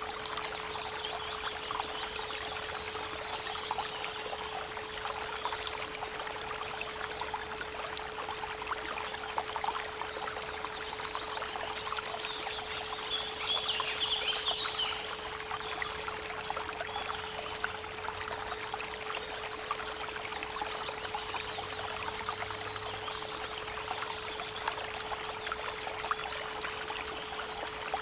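Creek water running steadily, layered over a constant 432 Hz pure tone, with birds calling now and then: a warbling phrase about halfway through and short trills near the end.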